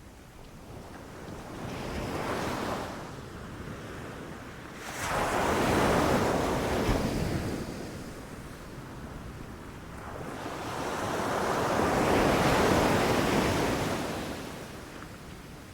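Ocean waves breaking on a beach: a small wave about two seconds in, then two larger waves that surge and wash back, the first rising suddenly about five seconds in and the second swelling more slowly to a peak near the end.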